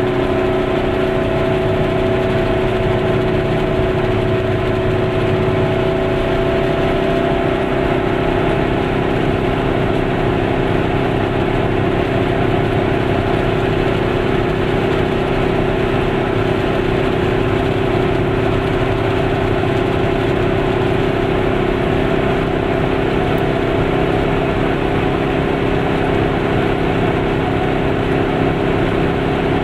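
Goggomobil's small two-stroke twin engine running steadily at cruising speed, heard from inside the cabin, with a steady hiss of tyres on the wet road.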